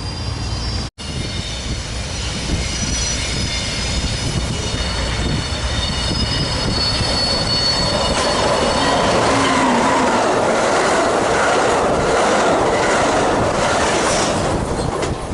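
Amtrak Pacific Surfliner passenger train, hauled by a Siemens SC-44 Charger locomotive, passing on the rails. Its wheels squeal with a steady high ringing, then the rush and wheel clatter of the passing train swell and are loudest in the later part. The sound breaks off for an instant about a second in.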